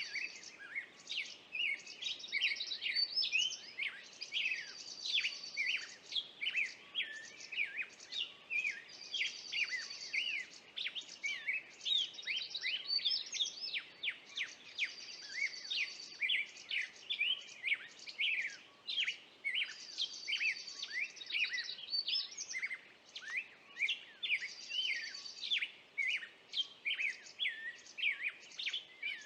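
Wild birds singing: a dense run of quick, sharp chirps, with a buzzy trill that comes back every few seconds.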